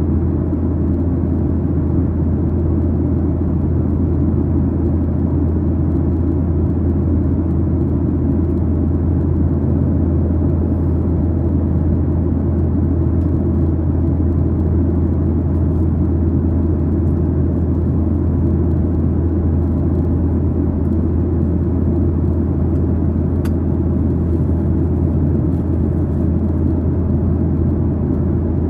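Steady low drone inside the cabin of a Boeing 737-900ER, the hum of its twin CFM56-7B turbofans and the airflow, unchanging throughout.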